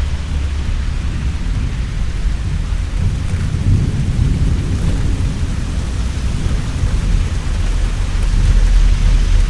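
Heavy rain falling steadily with deep rolling thunder, the rumble swelling about midway and again near the end.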